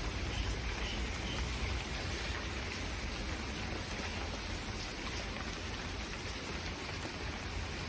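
Steady rain falling, with a dense patter of individual drops and a low rumble underneath.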